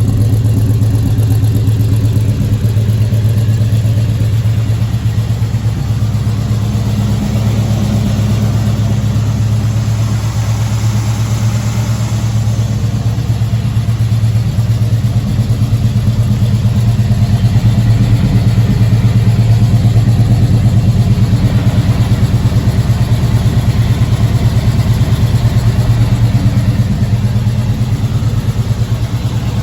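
1977 Chevrolet K5 Blazer engine idling steadily and evenly with a low exhaust pulse, warming up after a cold start.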